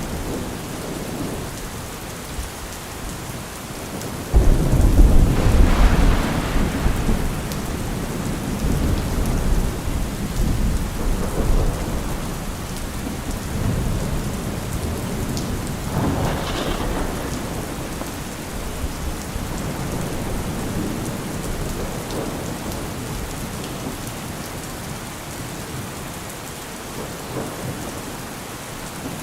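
Steady rain with thunder: a sudden loud thunderclap about four seconds in that rolls on for several seconds, then a second crack of thunder near the middle, fading into distant rumbles over the rain.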